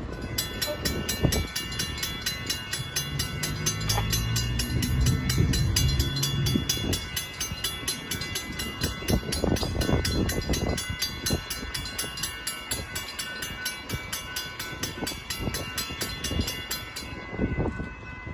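A train passing over a road grade crossing while the crossing bell rings rapidly and steadily, stopping about a second before the end. A deep horn sounds for a few seconds early on, and wheels knock over the rail joints as the cars go by.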